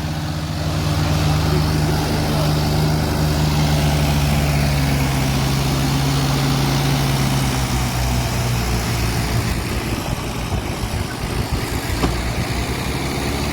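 Diesel tractor engine running steadily, working at a slope; about eight seconds in its note drops a little and turns uneven.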